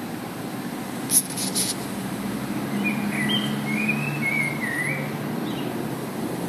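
Steady low outdoor noise of wind, with a bird chirping in a short wavering, warbling phrase in the middle. A couple of sharp high clicks come about a second in.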